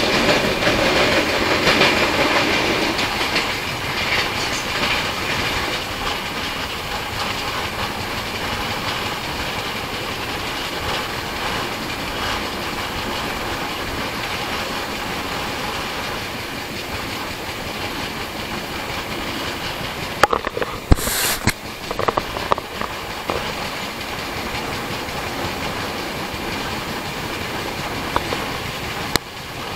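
Jharkhand Swarna Jayanti Express passenger train running at speed, heard from beside an open coach door or window: a steady rumble and rattle of the coaches with wheels clicking over the rail joints. It is louder for the first few seconds while crossing a bridge. A brief cluster of sharp knocks comes about two-thirds of the way through.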